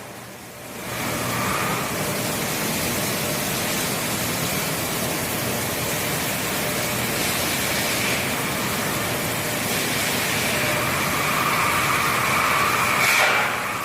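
Steady industrial noise: a continuous even hiss over a low rumble, which starts quieter and comes up to full level about a second in.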